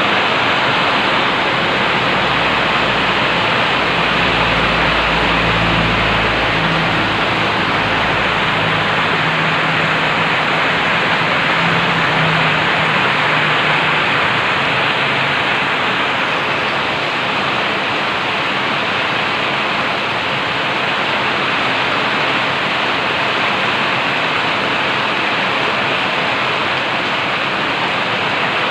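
Heavy tropical rain pouring down in a steady, dense hiss. A faint low drone sits under it for several seconds in the first half.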